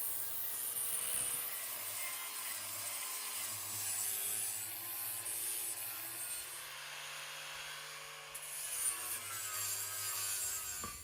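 Wooden table surface being sanded: a steady, even rubbing hiss of abrasive on wood.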